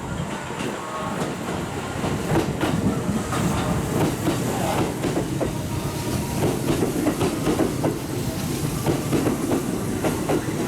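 Kintetsu electric train running through the station, its wheels clicking rapidly over rail joints over a steady rumble that grows louder about two seconds in.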